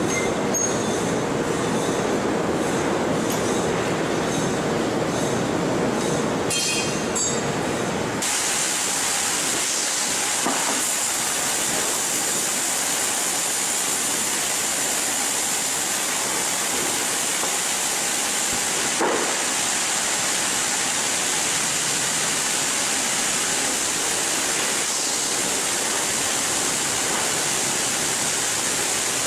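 Sawmill machinery running with a steady rumbling noise and a faint steady tone. About eight seconds in it changes abruptly to a steady hiss.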